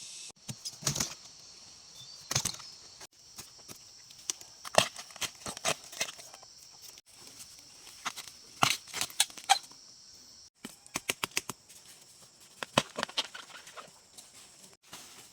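Irregular sharp cracks and knocks, several in quick clusters, from bamboo shoots being snapped and cut, over a steady high background hum.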